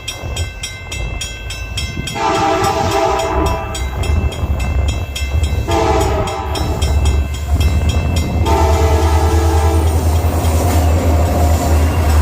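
A bell rings rapidly and steadily while three EMD SD40-2 diesel locomotives approach the grade crossing, their horn sounding three long blasts about three seconds apart. The locomotives' heavy low engine rumble builds from about two seconds in and grows louder toward the end.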